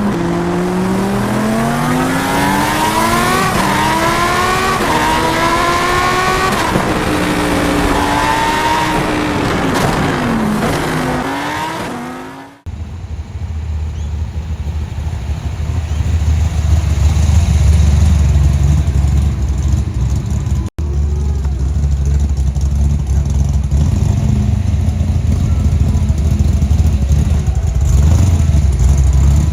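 A muscle car's engine accelerating through the gears, its pitch climbing and dropping back at each shift, until an abrupt cut about twelve seconds in. Then a deep, steady low rumble of a muscle car's engine idling and burbling, broken once by a brief dropout.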